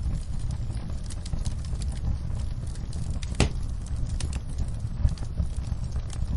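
Campfire burning: a steady low rumble of flame under frequent sharp crackles and pops from the burning wood, with one louder pop about halfway through.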